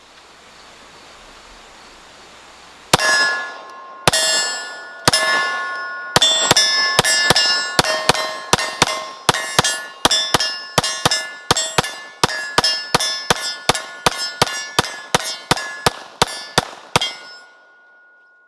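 Glock P80 9mm pistol firing a string of about thirty shots with ringing steel target hits, starting a few seconds in. The first few shots are about a second apart, then they come about three a second until near the end. The gun cycles mixed ammunition without missing a beat.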